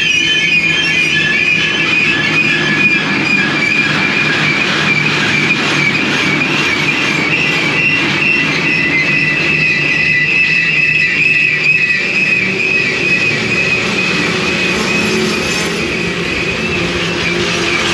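Train running on the rails, with a steady high wavering squeal from the wheels over a low rumble.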